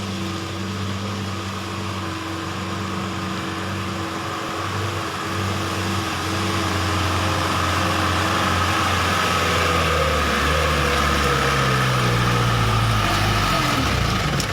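Truck engine running steadily with a thin high whine over it, its pitch sliding down over the last few seconds as the engine slows.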